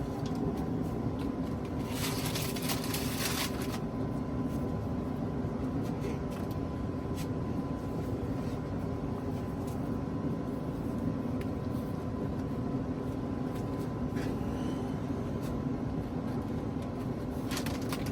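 A steady low mechanical hum, with brief rustling about two seconds in and again near the end.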